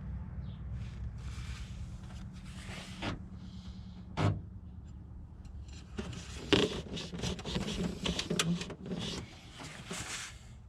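Handling noises: a sharp click about four seconds in, then a busy run of clicks, knocks and rubbing over a steady low hum.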